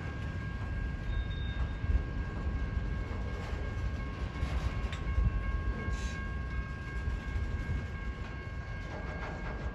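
A train rolling past, a continuous low rumble of wheels on rails with faint steady high-pitched tones above it.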